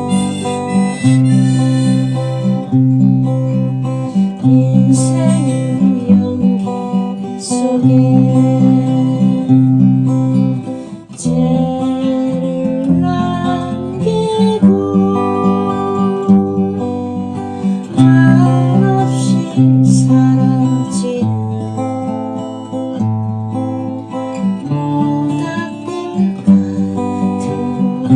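Acoustic guitar strumming a steady rhythmic accompaniment, with a melody of held notes sliding between pitches played over it: an instrumental passage of the song.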